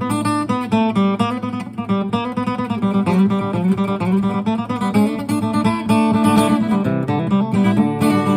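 Acoustic guitar flatpicked in a bluegrass instrumental break: a quick run of single picked notes over steady bass notes.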